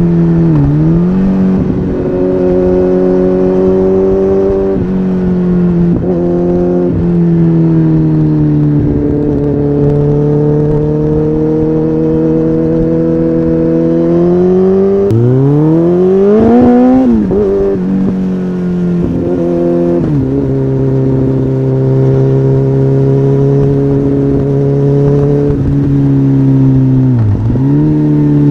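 Kawasaki ZX-14R's inline-four engine running at a steady cruising speed, its pitch drifting slowly lower. About halfway it revs up hard under acceleration and then drops back, and the throttle briefly closes and reopens near the start and near the end.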